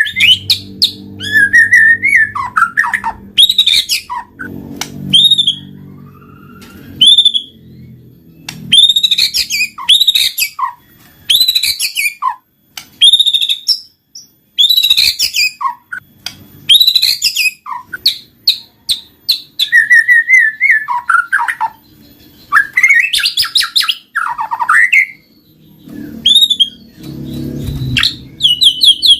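White-rumped shama (murai batu) singing in quick succession: loud, varied whistled phrases, chirps and rapid trills, one burst after another with short gaps.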